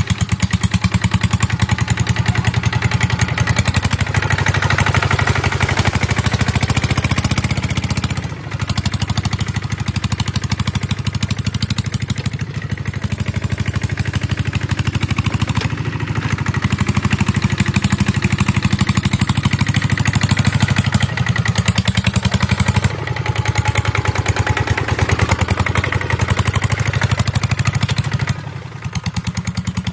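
Kubota ZT150 single-cylinder diesel engine of a walking tractor running steadily under load while plowing a rice field. It chugs with a rapid, even beat, and its level briefly drops a few times, about eight seconds in and near the end.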